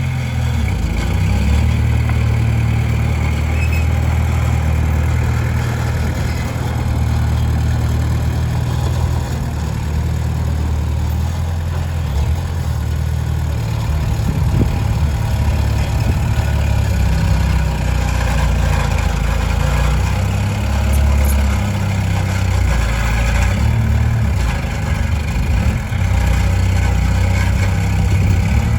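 Komatsu D20P bulldozer's diesel engine running as it works, a continuous low drone that shifts in pitch and strength several times.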